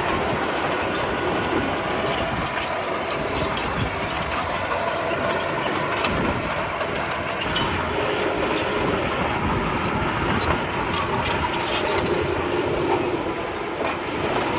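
Komatsu D31P bulldozer working, its diesel engine running steadily under the clatter and clank of its steel tracks, with scattered sharp clicks throughout.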